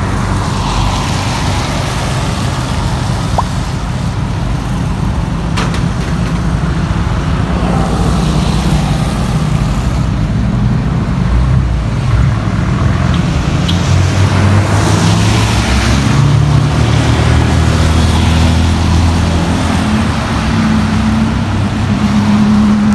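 Road traffic on a wet street: vehicle engines running with a steady low rumble, and cars passing with tyre hiss, two passes standing out, about a second in and again past the middle.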